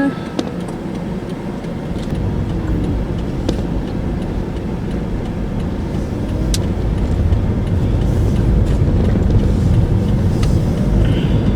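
Car interior noise while driving: a steady low rumble of engine and tyres that grows gradually louder toward the end, with a few faint clicks.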